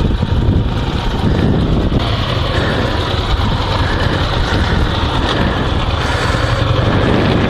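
Dnepr MT-16 sidecar motorcycle's air-cooled boxer twin engine idling steadily, just after a clean start.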